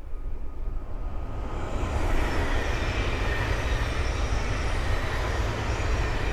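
Thameslink Class 700 electric multiple unit passing: a rush of wheels on rail and air that swells over the first two seconds and then holds, with a faint steady high whine.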